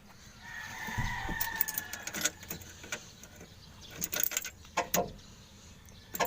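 A rooster crows once, a long call of about a second and a half that drops slightly at the end. Scattered metallic clicks and jingling follow, typical of a key ring being handled at the ignition.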